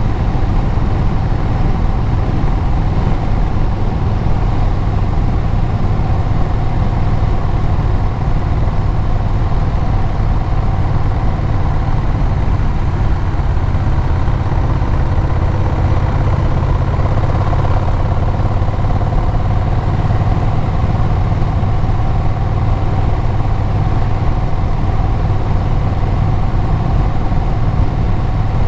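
Vehicle engine and exhaust running at a steady speed, with road noise, during a ride.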